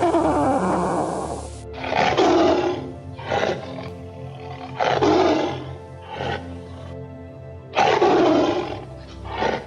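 A big cat roaring, three loud calls each followed by a shorter one, over steady background music.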